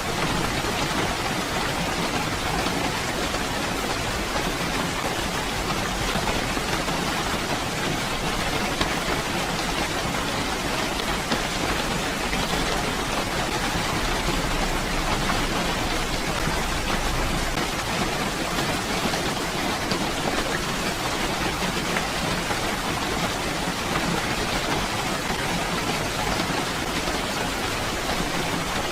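Steady rainfall, an even unbroken hiss of drops.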